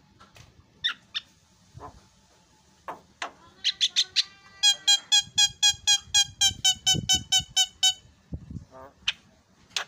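Javan myna (jalak kebo) calling: a few scattered short calls, then a fast, even run of repeated ringing notes, about five a second, lasting some four seconds before a couple of final single calls.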